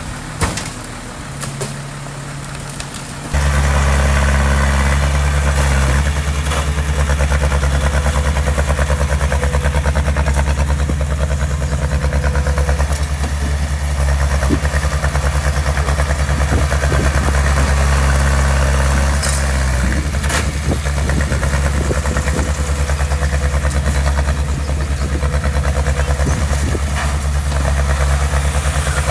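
Heavy diesel engine of construction machinery running steadily with a deep, even drone, which comes in suddenly and much louder about three seconds in.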